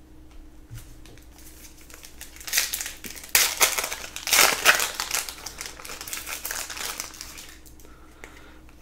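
Wrapper of a Panini Prizm basketball card pack being torn open and crinkled, a crackly rustle that builds about two and a half seconds in, is loudest around the middle and dies away near the end.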